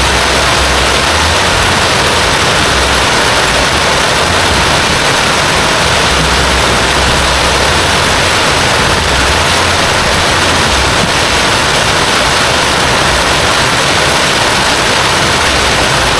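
Heavy rain pouring down steadily, with a low rumble that swells and fades underneath.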